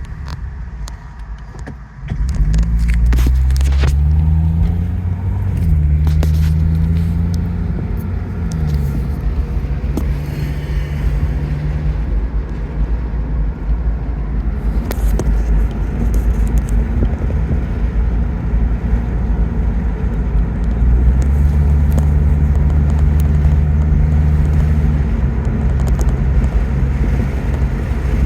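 Car engine pulling away and running on the road, its note rising in steps about two to four seconds in, dropping back about eight seconds in and rising again around twenty seconds in, with a few sharp clicks.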